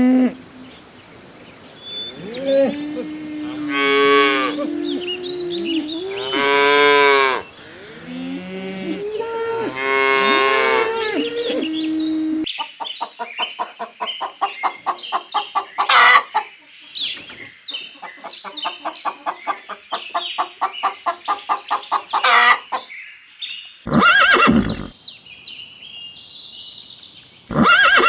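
Cattle mooing: several long, drawn-out calls. About twelve seconds in, the sound cuts to horses whinnying, with rapid quavering calls and a few loud neighs.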